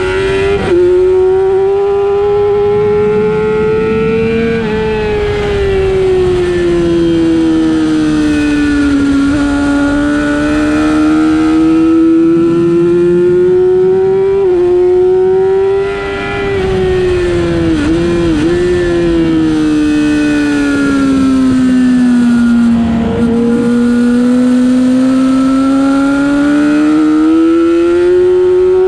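Racing motorcycle engine heard from on board at speed, its pitch climbing and falling over several seconds at a time as the rider opens and closes the throttle through the corners, with a few quick steps and dips in pitch at gear changes and throttle blips.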